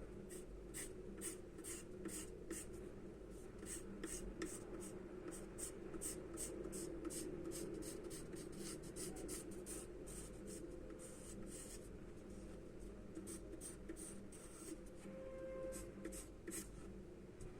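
Charcoal pencil scratching on paper in a run of short, quick strokes, several a second with brief pauses, over a steady low hum.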